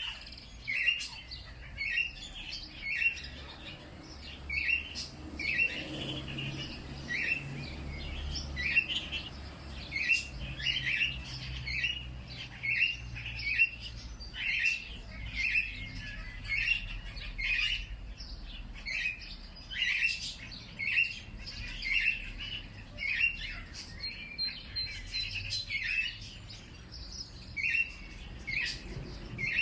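A bird chirping over and over: short, similar chirps at a fairly even pace of roughly one to two a second, with a faint low rumble underneath.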